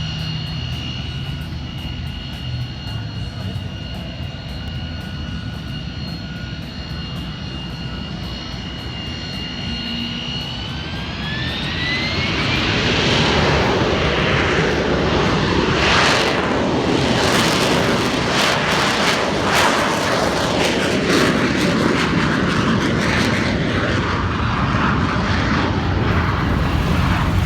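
Harrier jump jet's turbofan whining steadily, then spooling up with a rising whine about eleven seconds in to a loud full-power jet rush for takeoff.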